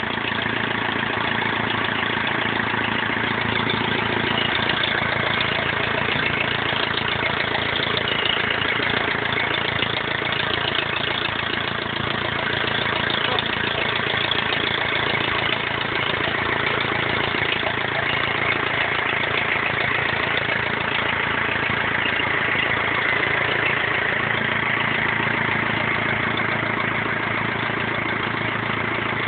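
BMW E46 320d's 2.0-litre four-cylinder common-rail diesel idling steadily, just rebuilt after a swirl-flap failure.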